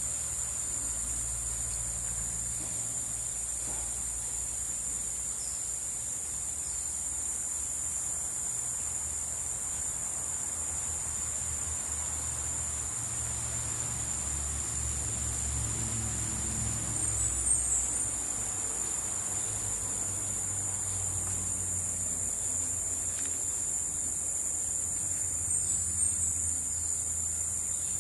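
Rainforest insects droning as a steady high-pitched buzz, with a low rumble underneath. Twice, about halfway through and near the end, a brief louder chirp rises above the drone.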